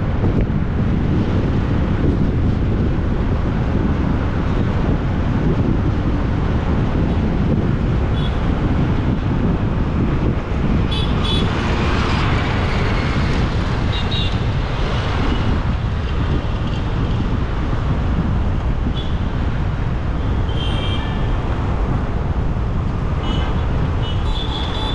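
Steady rush of wind and road noise while riding a motorbike through traffic, with short vehicle horn toots several times from about eight seconds in.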